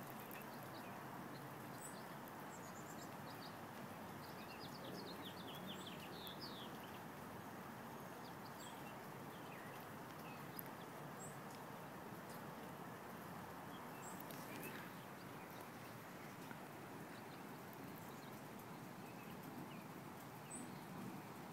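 Quiet outdoor ambience: a steady low hiss, with a bird chirping in a quick run of short notes a few seconds in.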